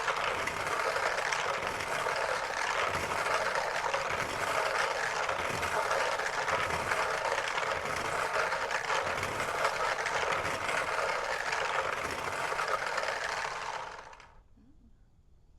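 Lottery draw machine running, with balls tumbling and rattling in a steady dense clatter that stops abruptly about fourteen seconds in.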